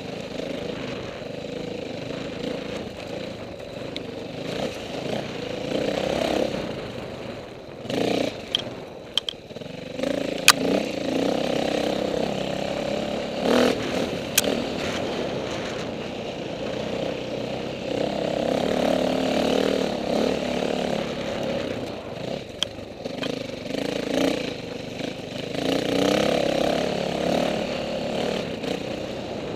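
Dirt bikes racing on a hare scramble course, their engines revving and swelling then fading again as riders pass at varying distances. A few sharp clicks near the middle.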